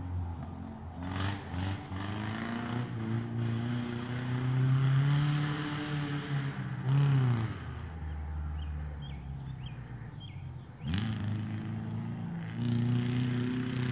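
Subaru Legacy's boxer engine revving as the car is driven hard, its pitch climbing steadily, dropping sharply about seven seconds in, then climbing again from low revs a few seconds later.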